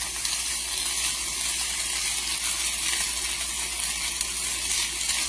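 Potato slices, onions and ham sizzling steadily in olive oil in a frying pan.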